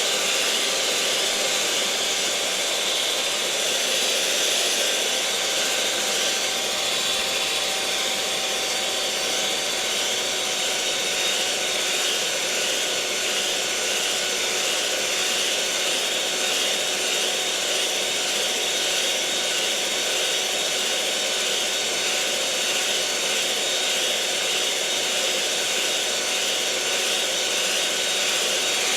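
Electric kitchen mixer running continuously at a constant speed, a steady whirring motor hum with a faint high whine.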